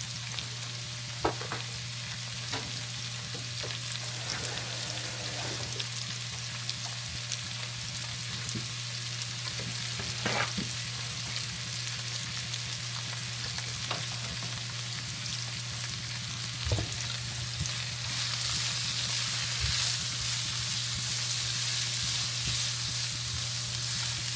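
Sliced onions with fresh rosemary and thyme sizzling in hot oil in a pan, stirred now and then with a few clicks of the utensil against the pan. The sizzle grows louder about three quarters of the way through, over a steady low hum.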